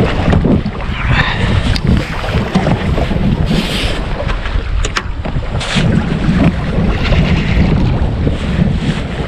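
Wind buffeting the microphone in a steady low rumble, with sea water splashing around a small boat. A couple of sharp clicks or knocks stand out, about two seconds in and again about five seconds in.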